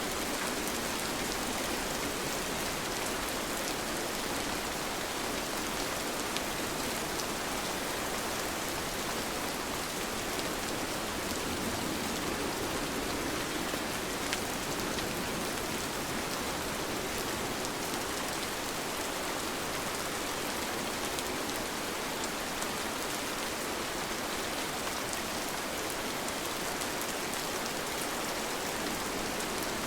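Steady rain, falling evenly, with many fine drop ticks and no let-up.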